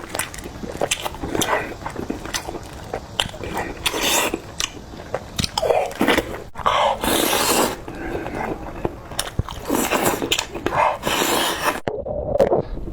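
A person biting and chewing food close to the microphone, with many sharp irregular clicks and smacks.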